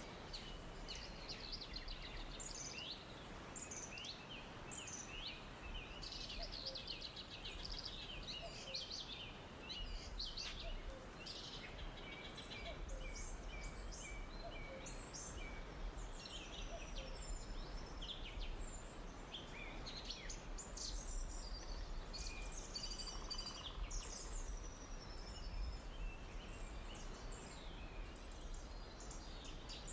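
Forest ambience: many songbirds chirping and whistling over a soft steady background hiss.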